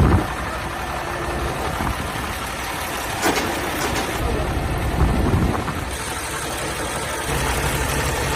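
Heavy diesel truck engine idling with a steady low rumble, with a sharp click a little over three seconds in and a dull thump about five seconds in.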